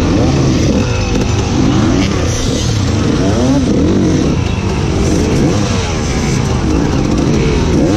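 Enduro motorcycle engines, the nearest a KTM dirt bike, revving up and down again and again in short throttle bursts.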